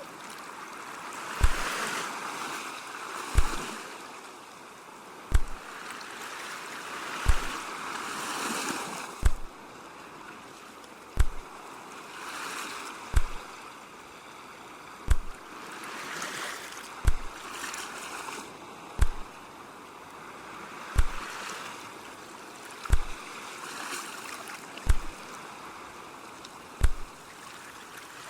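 Ocean surf washing in and out, its hiss swelling and fading every few seconds, with a deep, even thump about every two seconds laid over it.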